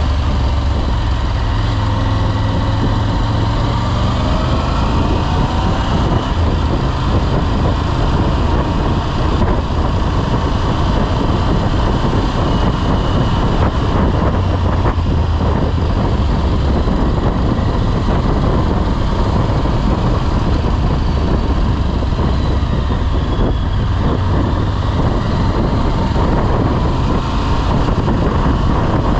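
Motorcycle engine running while the bike rides along, under heavy wind noise on the microphone. The engine pitch rises and falls over the first few seconds.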